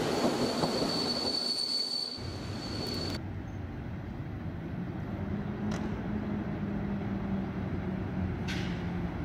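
Passenger train running past with a steady high wheel squeal. After about three seconds this cuts off sharply, and an electric locomotive hauling coaches approaches slowly with a steady low hum and two faint clicks.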